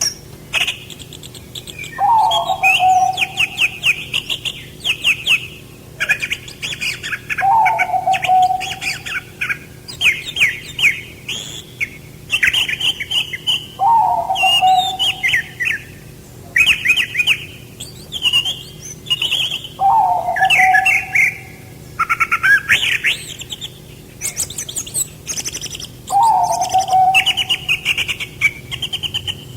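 Songbirds singing: rapid chattering, twittering phrases, with a low whistled note that falls and is repeated about every six seconds.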